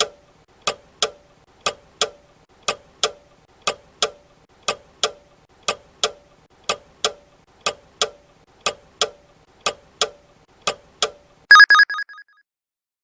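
Countdown-timer sound effect of a ticking clock, a tick-tock pair every second, marking the 12 seconds given to answer a quiz question. Near the end a short, loud ringing alert sounds in a few quick pulses to signal that the time is up.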